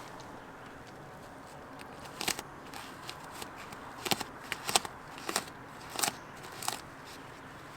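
Razor blade slicing through a deployed airbag's material: about six sharp crackling cuts, starting about two seconds in and ending near the end.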